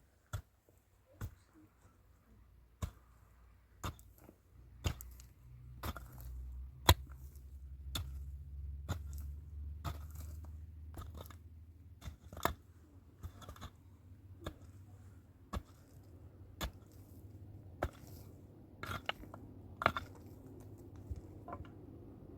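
A steady series of sharp knocks or cracks, about one a second, the loudest about seven seconds in, with a low rumble underneath through the middle.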